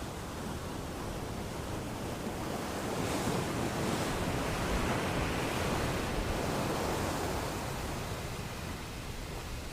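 Sea waves breaking as surf, a steady rushing wash that swells up over the first few seconds, peaks midway and eases off toward the end.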